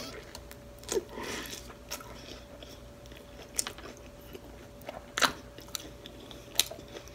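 Close-miked chewing of a mouthful of soft flour-tortilla chicken taco with the lips closed: soft wet clicks and smacks about once a second, the loudest a little after five seconds in. A faint steady hum runs beneath.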